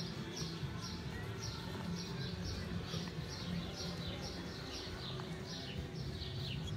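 A small bird chirping over and over, short falling notes two or three a second, over a low steady hum.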